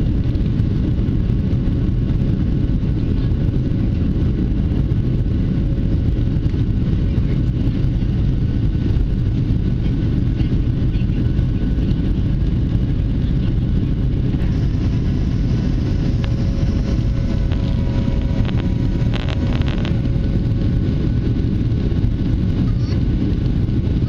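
Steady low roar of a Boeing 737's jet engines and rushing air, heard from inside the passenger cabin.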